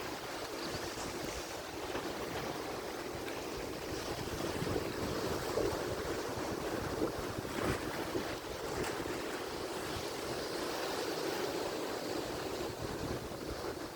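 Atlantic Ocean waves breaking and washing on the shore, a steady rushing surf with a few louder swells near the middle.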